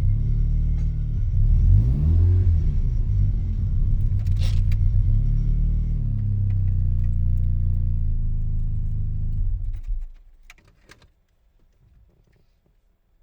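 Mazda RX-7 rotary engine idling through an RE Amemiya Dolphin Tail 90 Curl exhaust, heard from inside the cabin with the windows down, with one short rev about two seconds in. About ten seconds in the engine is switched off and stops suddenly, followed by faint clicks and a jingle like keys.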